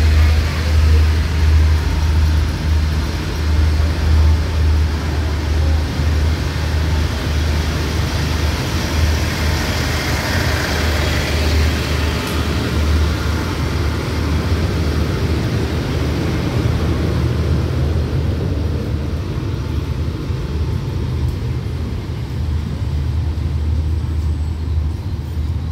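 Diesel-hauled passenger train's coaches rolling past on the track and pulling out, with a steady low hum under the rumble of the wheels. The sound swells about halfway through and eases a little near the end as the last coach moves away.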